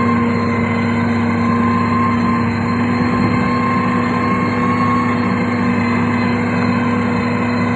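Diesel engine of heavy road-building machinery, such as a motor grader or road roller, running steadily at constant speed with a continuous hum.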